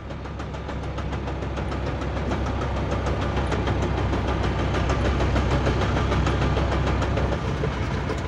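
Chevrolet D20 pickup's damaged manual gearbox making noise under the running engine: a steady low rumble with a fast, regular rattle, growing a little louder over the first few seconds. The gearbox has broken fourth and fifth gears, and a fourth-gear tooth rebuilt by filling has given out again.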